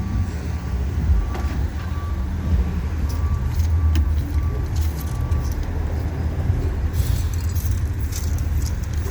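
A motor vehicle engine idling, a steady low rumble, with a faint on-and-off whine and a few light clicks over it.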